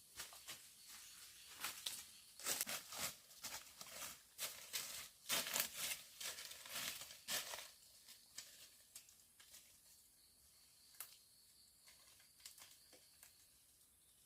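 Irregular rustling and crackling of vegetation being handled, busiest from about two to eight seconds in, then thinning to a few scattered ticks.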